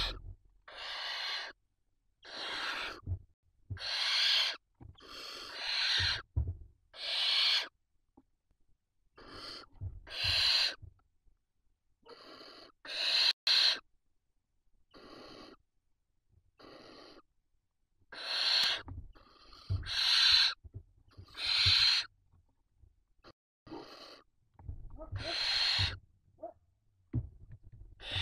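Barn owl chicks giving their rasping, hissing begging calls ("snoring"), one breathy hiss after another about once a second, with some calls overlapping.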